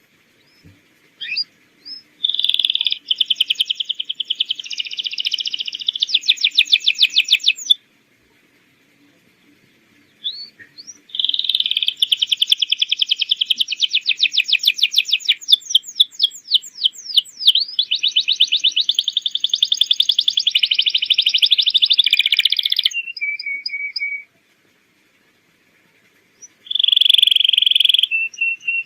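Domestic canary singing long, loud song phrases of fast rolling trills and rapid repeated notes, in three bouts broken by short pauses.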